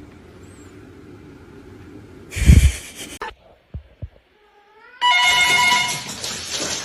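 A loud short thump-like burst, then, about two seconds later, a steady electronic ringing tone with several fixed pitches that lasts about a second and fades away.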